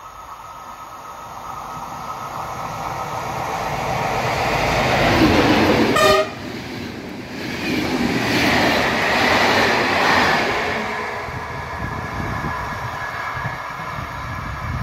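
Train passing: it grows louder to a peak about six seconds in, drops suddenly, then stays loud for a few more seconds before easing off.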